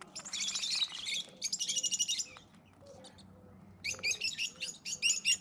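Birds chirping in three bouts of rapid, high, overlapping chirps, with a longer lull in the middle.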